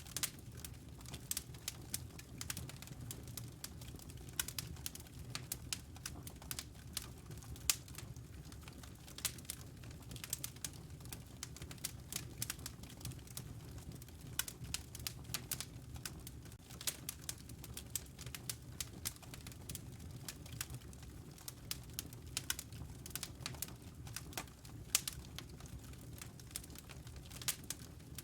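Wood fire crackling in a fireplace: many irregular sharp pops and snaps over a low, steady rumble of the flames.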